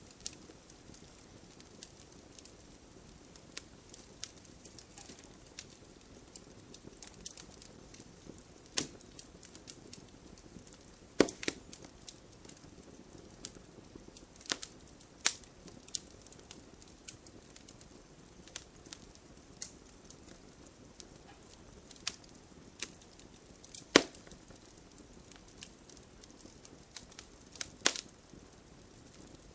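Wood fire crackling: irregular sharp pops and snaps over a low, steady rush of flames, the loudest snaps about eleven and twenty-four seconds in.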